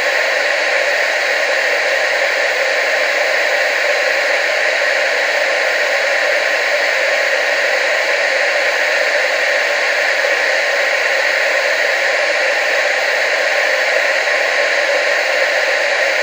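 Television static: a steady, even hiss of analogue TV snow, strongest in the mid and upper range with little bass.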